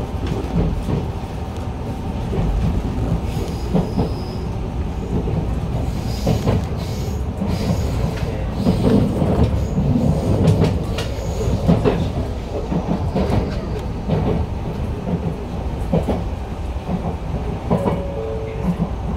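Enshu Railway 2000 series electric train running at speed, heard from inside the cab area: a steady rumble of wheels on rail with irregular clicks and knocks from the track.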